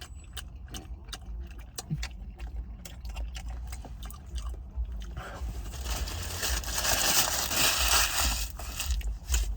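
Close-up eating sounds: chewing of a sausage burrito with small clicks, then from about five seconds in a louder crackly rustle of its wrapper, over a steady low hum.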